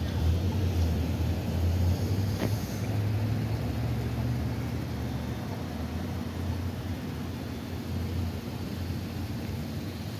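Steady low rumble of an idling vehicle engine, with street noise around it.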